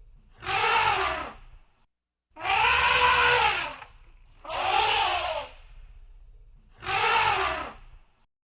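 Elephant trumpeting: four separate calls, each just over a second long, rising then falling in pitch, about two seconds apart.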